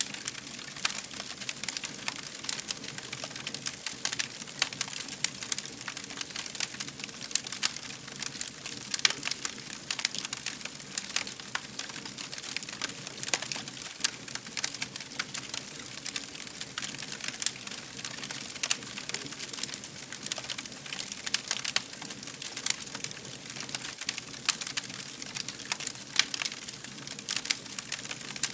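Wood fire crackling: frequent, irregular sharp pops and snaps over a soft steady hiss.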